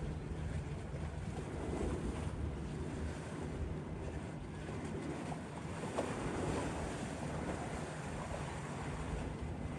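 Wind rushing over the microphone with a steady low rumble underneath; no separate events stand out.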